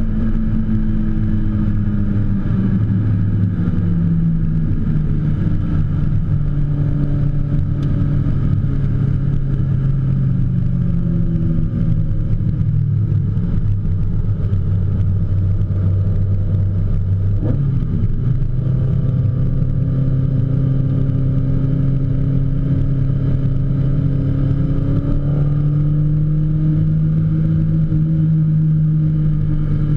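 In-car sound of a BMW E30 M3 race car's engine driven hard on track. The engine note falls in steps over the first few seconds, holds steady, drops sharply a little past halfway, then climbs again near the end as the car accelerates.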